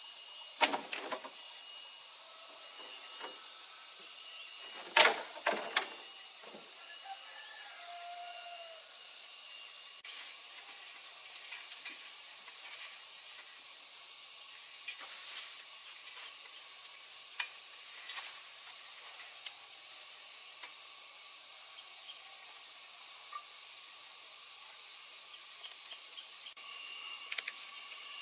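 A few sharp knocks, loudest about five seconds in, then scattered faint clicks, over a steady high hiss.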